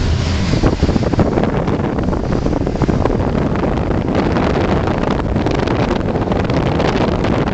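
Steady rush of wind and road noise inside a moving car, with wind buffeting the microphone in irregular flutters.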